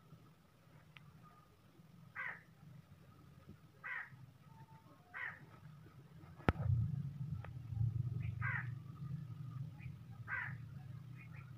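A bird calling repeatedly in the background, about five short harsh calls spaced a second or two apart. A sharp click comes about six and a half seconds in, followed by a louder low rumble.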